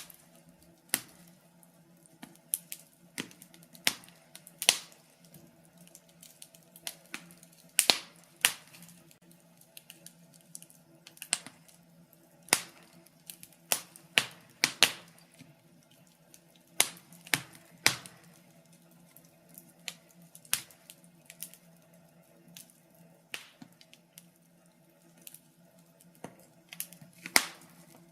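Wood fire crackling in a fireplace: irregular sharp pops and snaps, a few every second, over a faint steady low hum.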